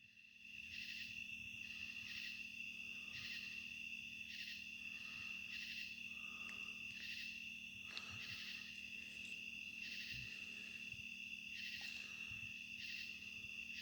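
Night insect chorus of crickets and katydids: a steady high trill with a pulsing call repeating about once a second, over a faint steady low hum.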